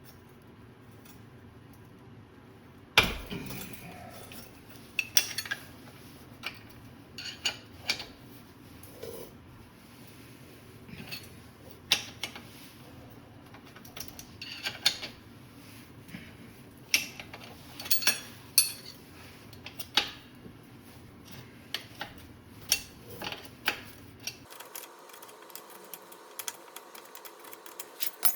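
Metal tools and parts clinking and clattering at irregular intervals, with a loud sharp knock about three seconds in.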